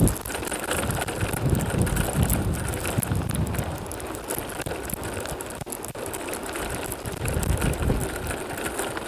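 Strong wind buffeting the microphone of a moving bicycle, a gusty low rumble that swells and eases, over the bike's rolling noise.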